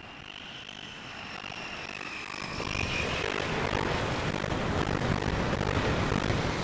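Jet aircraft engine noise: a high whine over a rumble that grows louder through the second half.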